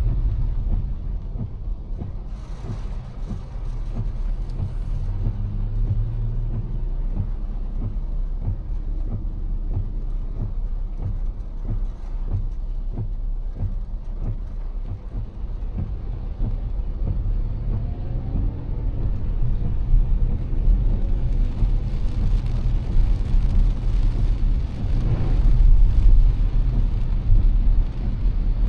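A car driving in heavy rain: a steady low road rumble with rain pattering on the car. A louder swell of wet-tyre hiss builds near the end.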